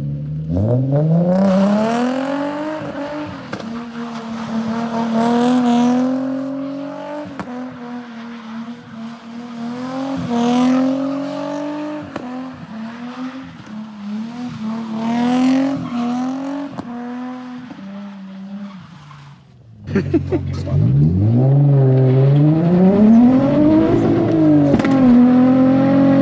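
Nissan 350Z's V6, fitted with test pipes and a single-exit exhaust, revving up and down again and again as the car drifts on wet pavement, with bursts of tyre squeal every few seconds. Just before the end the sound cuts and the engine is heard revving from inside the car's cabin.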